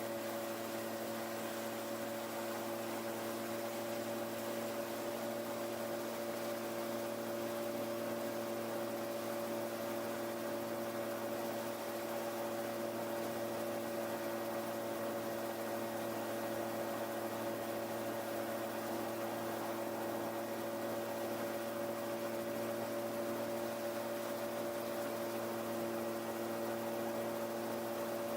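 Kallithea gyroplane's engine and propeller running at a steady power setting in flight: an unchanging hum made of a few fixed tones over a constant rushing noise.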